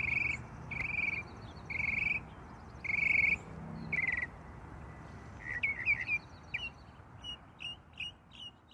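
Wild birds singing: five short, buzzy trilled calls about a second apart, then a quickening run of short, sharp chirps, over a low background rumble.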